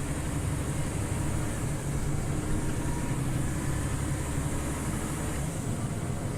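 Scania OmniLink CL94UB city bus running, a steady low engine drone with road noise that eases slightly near the end.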